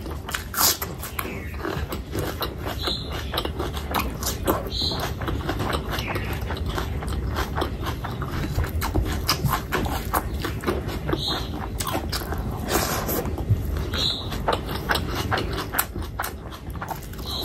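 Close-miked chewing and wet mouth-smacking of a person eating oily meat pickle and rice by hand, with many quick, sharp clicks and smacks.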